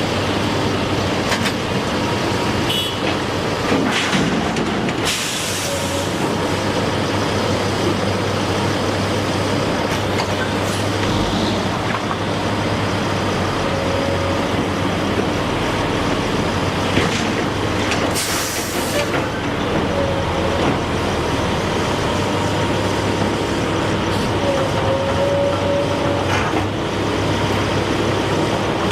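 Steady heavy-vehicle and machinery noise at a bridge construction site, with a low engine hum. There are short hissing blasts about five seconds and eighteen seconds in.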